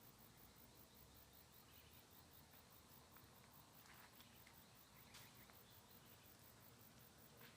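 Near silence with faint, high-pitched, evenly pulsing insect chirping, and a few faint clicks around the middle.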